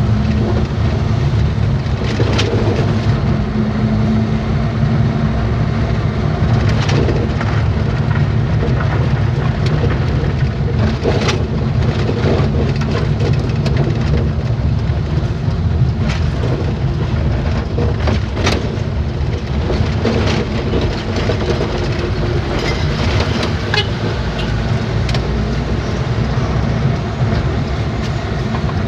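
Truck driving along the road: a steady low engine and road rumble with a constant hum, and several sharp knocks or rattles scattered through it.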